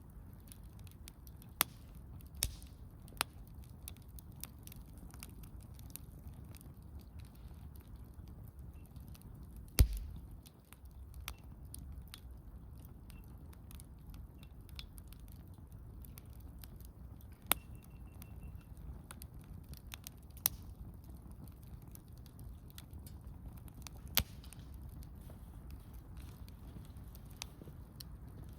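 Small wood campfire crackling, with scattered sharp pops and snaps a few seconds apart. The loudest pop comes about ten seconds in.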